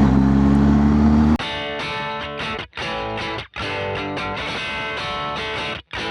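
BMW R1250GS boxer-twin engine pulling hard for about a second, then cut off abruptly by electric guitar music with a few brief stops in it, which fills the rest.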